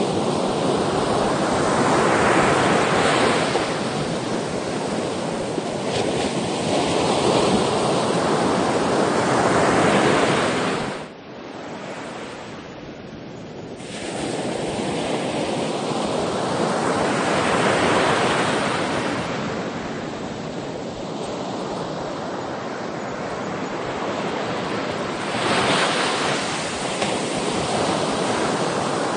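Sea waves breaking and washing on the shore in a steady rushing roar that swells and eases in slow surges several seconds apart. The sound drops away abruptly for about three seconds near the middle, then builds again.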